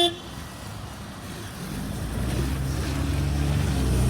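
The last of a bus horn toot cuts off right at the start, then a bus's diesel engine grows steadily louder from about two seconds in as it approaches.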